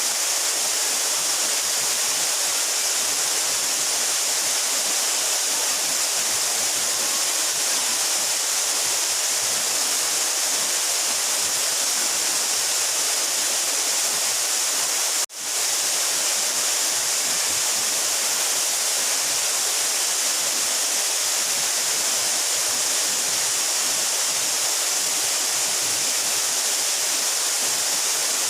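A mountain waterfall about 12 metres high, its water falling and rushing steadily as an even hiss. The sound cuts out for a split second about halfway through, then resumes.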